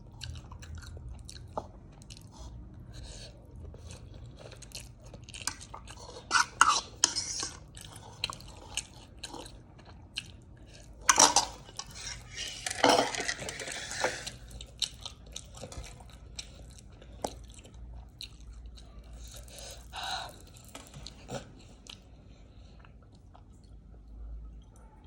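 Close-miked eating sounds: steady chewing with many small wet clicks. A few louder spells of crunching or slurping come around a quarter, half and four-fifths of the way through.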